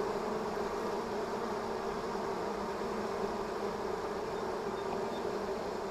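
Honeybees buzzing in a steady, dense hum at an open hive. The colony is agitated by the inspection, and bees are fanning their wings to cool the hive.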